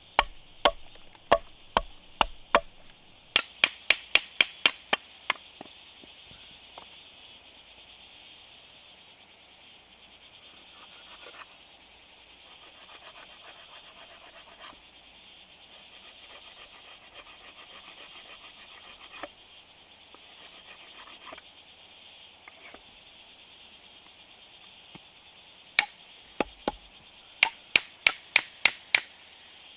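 Mallet striking a chisel into wood: runs of sharp blows, about three a second, in the first five seconds and again near the end, with quieter scraping between. Insects chirr steadily behind.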